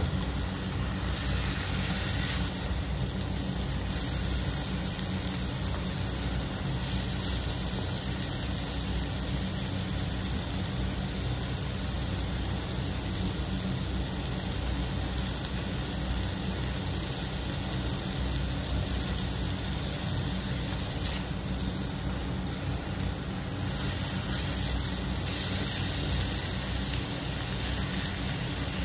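Pork belly and liver pieces sizzling in a hot wok as they are stir-fried, with a steady hiss over a continuous low rumble.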